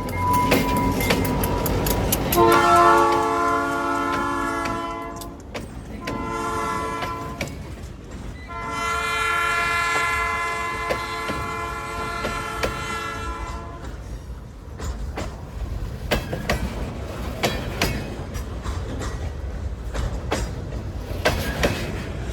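Diesel freight locomotive's air horn sounding a long blast, a short blast and a final long blast, the grade-crossing pattern. It is followed by rhythmic clicking of the train's wheels over the rail joints as the cars roll past.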